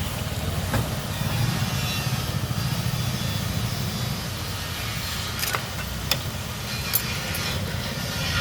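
Steady low mechanical rumble with four sharp clinks spread through it, typical of hand tools knocking against motorcycle engine parts during dismantling.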